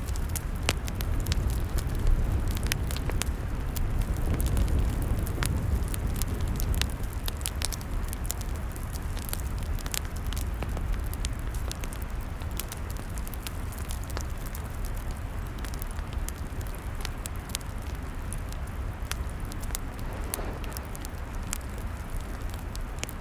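Wood campfire burning, crackling with frequent sharp pops and snaps scattered irregularly throughout, over a steady low rumble.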